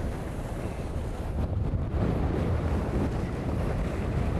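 Wind buffeting the microphone and water rushing past the hulls of a racing catamaran sailing fast in a strong gust, a steady low rush that grows a little stronger about halfway through.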